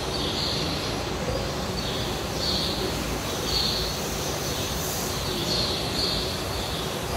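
Small birds chirping, short high chirps every second or so, over a steady noisy outdoor background.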